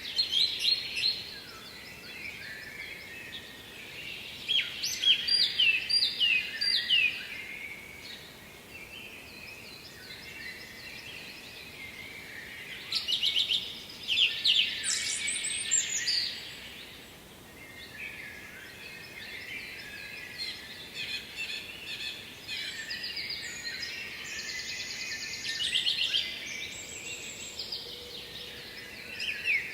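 Songbirds singing: phrases of quick chirps and trills come every few seconds, over a faint steady hiss.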